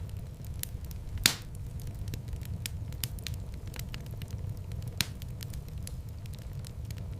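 Fireplace wood fire crackling: a steady low rumble of flames under a scatter of small crackles, with two louder pops, one a little over a second in and one later.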